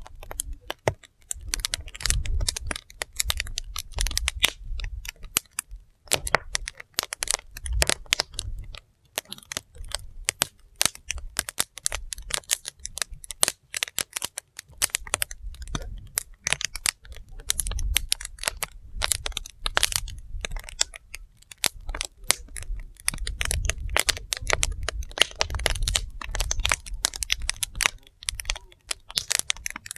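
Wood fire burning, the firewood crackling and popping in dense, irregular snaps, with a low rumble that comes and goes every few seconds.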